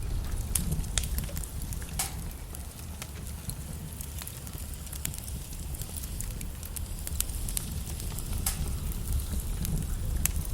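Wood logs burning in a fireplace: a steady low rumble of the fire with frequent sharp crackles and pops, two louder pops about two seconds in and near the end.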